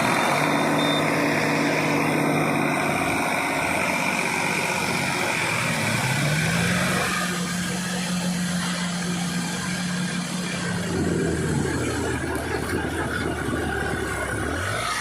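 Tractor diesel engine running hard under load. It runs steady, revs up about six seconds in and holds the higher pitch, then drops back about eleven and a half seconds in.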